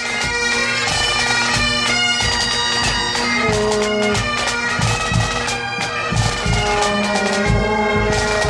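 Bagpipes playing a tune, the chanter melody moving from note to note over a steady drone.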